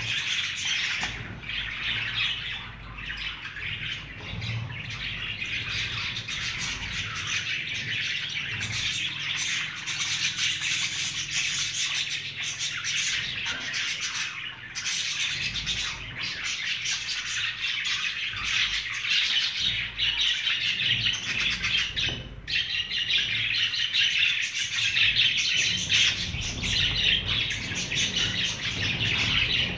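A colony of many budgerigars chattering and chirping at once, a dense unbroken warble that grows a little louder near the end.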